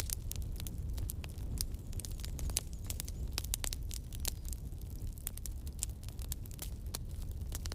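Wood campfire burning, with irregular sharp crackles and pops over a low, steady rumble of the flames.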